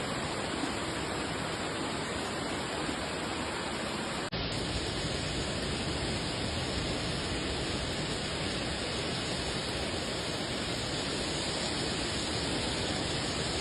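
Steady rush of heavy rain and running floodwater, an even noise with no distinct events. A little past four seconds in there is a brief dropout where the footage cuts to another clip with the same kind of sound.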